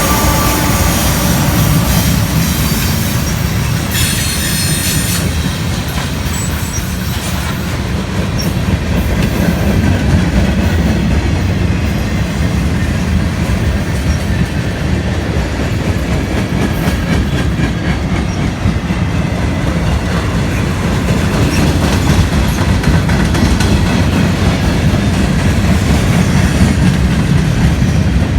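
Train rolling past close by: a steady, loud rumble of wheels on rail, with high wheel squeal over the first few seconds.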